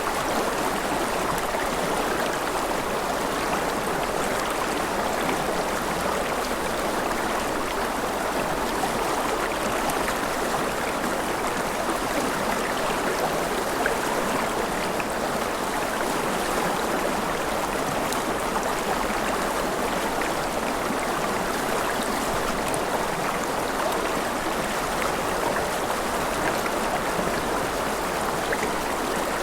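A forest river flowing, a steady, even rush of water over stones.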